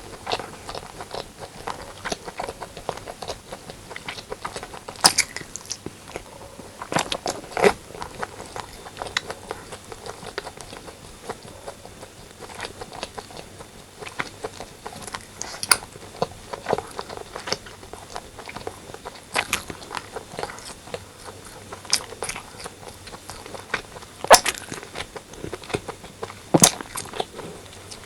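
Close-miked eating: chewing and mouth sounds of braised pork and rice, many small irregular clicks with now and then a sharper, louder smack or crunch.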